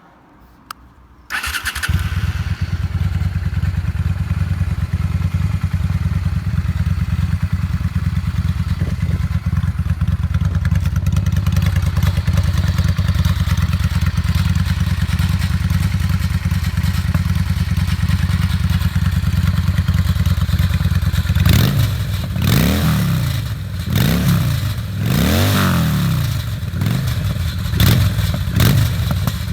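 1995 Honda Shadow VT600's carbureted V-twin catching about a second in, then idling steadily through an exhaust with its dB killer removed. Near the end it is revved about five times, each rev rising and falling in pitch.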